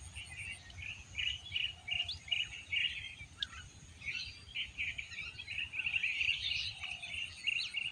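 Small birds chirping: rapid series of short, high chirps, sparse at first and becoming a busy, continuous run in the second half.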